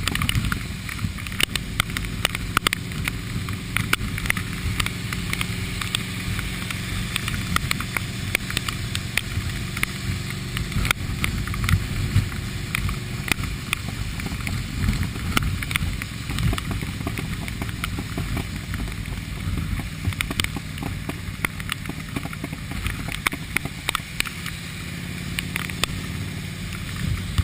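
Motorcycle engine running steadily at riding speed under heavy wind rush on the microphone, with many sharp ticks of rain hitting it throughout.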